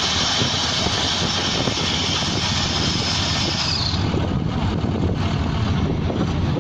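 Pneumatic drilling rig running: a steady machine drone under a loud hiss of air, and the hiss cuts off about four seconds in.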